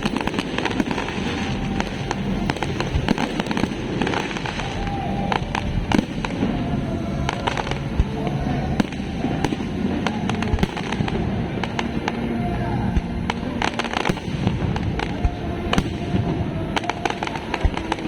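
New Year's fireworks display going off without pause: many sharp bangs and crackles in quick, irregular succession.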